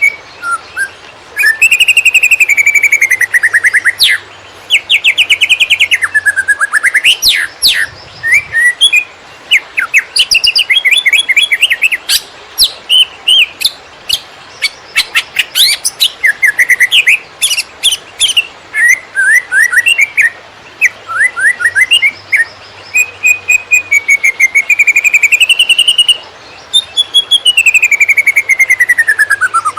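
A cucak ijo (green leafbird) singing loudly in the fast, nonstop 'konslet' style: long slurred whistles that rise and fall, broken by rapid trills and chattering notes, with hardly a pause.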